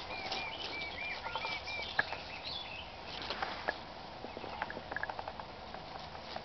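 Woodland birds singing: a run of about six quick, repeated arched notes in the first two seconds, then scattered higher chirps. Light clicks and rustles of leaves run under the song.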